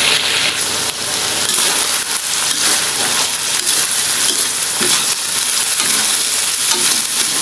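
Ground meat and diced vegetables sizzling steadily in a hot stainless steel wok as the pan is shaken and the food stirred, with faint knocks of the spatula against the pan.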